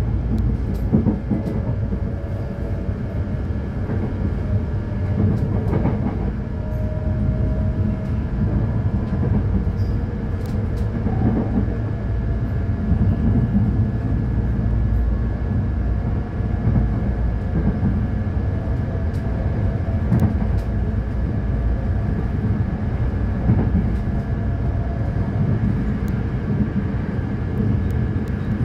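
Electric passenger train running along the track: a steady low rumble with a faint motor whine that slowly slides in pitch, a thin steady higher tone, and scattered light clicks from the wheels and rails.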